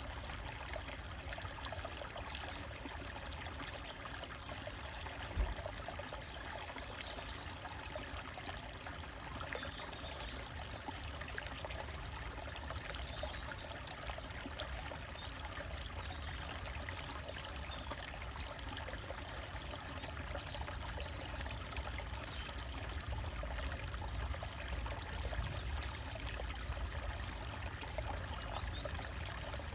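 Stream trickling and babbling over rocks in a steady wash, with small birds chirping now and then above it. A single low thump sounds about five seconds in.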